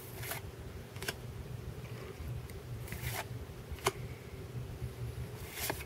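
Trading cards being flipped through by hand: a few faint, brief swishes and clicks of card against card.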